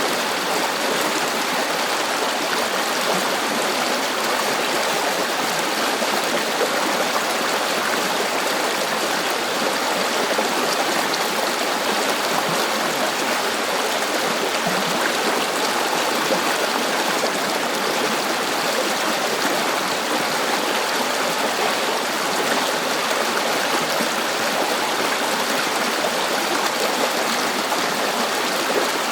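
River water flowing steadily over rocks, a continuous even rush with a light babbling texture.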